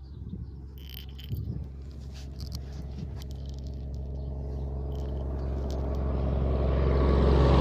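A motor vehicle's engine approaching, its low steady drone growing steadily louder, with a few faint clicks about a second in.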